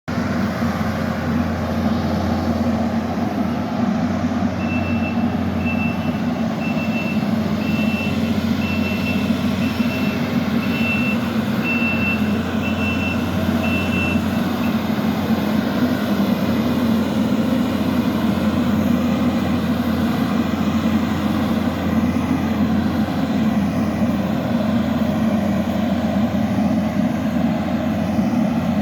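Kubota SVL65 compact track loader's diesel engine running steadily. From about five seconds in, its backup alarm beeps evenly, about one and a half beeps a second, for roughly ten seconds while the machine reverses, then stops.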